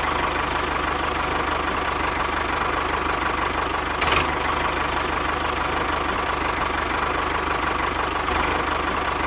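An engine idling steadily with a fast, even beat, with a short louder click about four seconds in.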